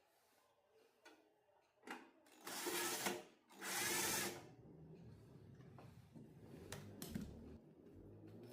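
A small power tool running in two short bursts, each under a second, after a few clicks.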